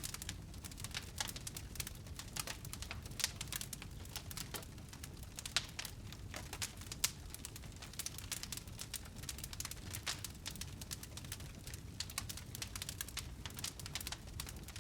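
Wood fire burning in a fireplace, crackling: a constant scatter of small pops and snaps over the low rush of the flames, with a few sharper pops about three, five and a half and seven seconds in.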